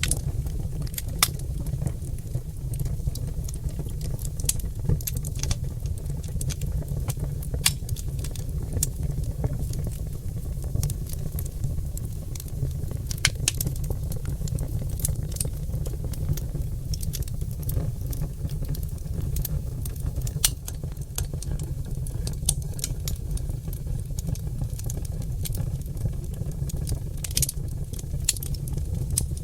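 Oak logs burning in a wood fire: a steady low rumble of flame with frequent, irregular sharp crackles and pops.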